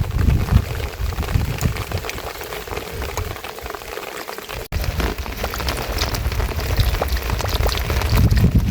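Steady rain falling, with many separate drops striking nearby surfaces and a low rumble at the start and again near the end. The sound cuts out for an instant about halfway through, then the rain carries on.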